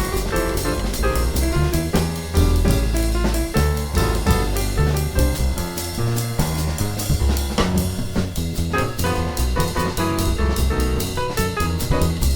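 Jazz piano trio playing: piano, upright bass and drum kit, with the drums and cymbals prominent over the piano and walking bass lines.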